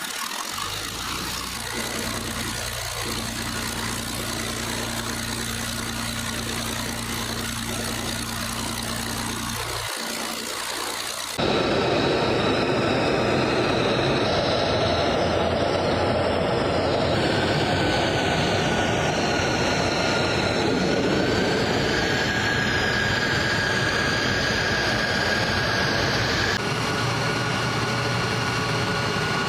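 F-22 Raptor jet engines running on the ground: a steady low hum at first, then, after a sudden cut about eleven seconds in, a louder rushing noise with a high steady whine.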